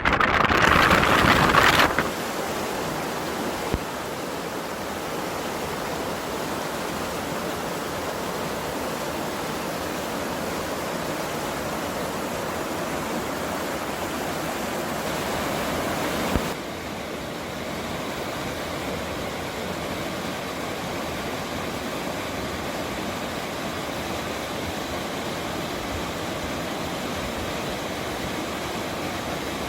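A loud gust of wind buffeting the microphone for the first two seconds, then the steady rushing of a mountain stream. About 16 seconds in it cuts to a slightly quieter stretch of the same rushing.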